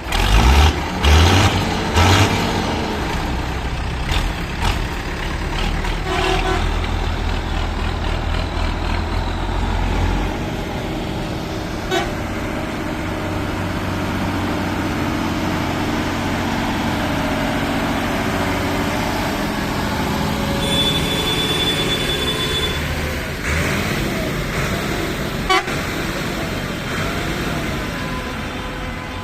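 Tractor engines running with a low rumble, several loud blasts in the first two seconds, and a horn sounding for about two seconds about two-thirds of the way through.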